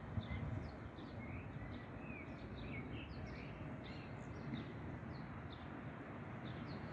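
Small birds chirping in quick, short calls throughout, over a low steady rumble.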